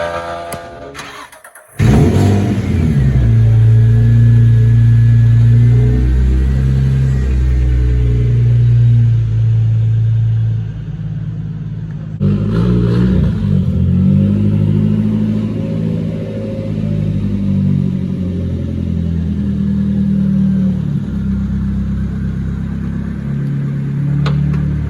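Car engine running loudly under load, its pitch holding steady and then stepping to new levels several times, as in revving or shifting. The sound cuts out abruptly about two seconds in, and there is another sharp change about halfway through.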